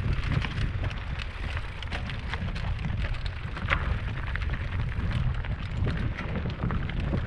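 Wind buffeting the microphone: a steady low rumble with irregular crackles and clicks over it.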